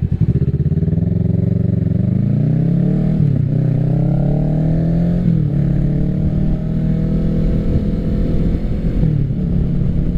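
Kawasaki Ninja 650 parallel-twin engine through an M4 full exhaust, accelerating. The pitch climbs, drops at an upshift about three seconds in, climbs again and drops at a second shift about five seconds in, then runs at a steadier pitch.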